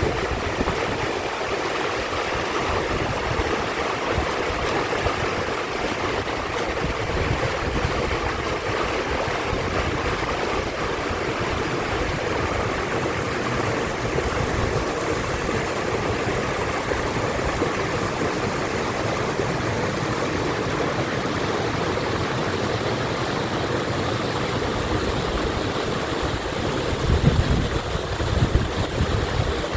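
Mountain stream water rushing steadily. Brief low rumbles come near the end.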